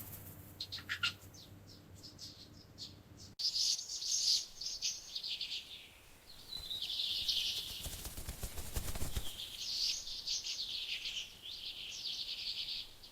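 Canaries chirping: a few short calls at first, then, after a sudden cut about three seconds in, dense overlapping chirping and twittering from many birds.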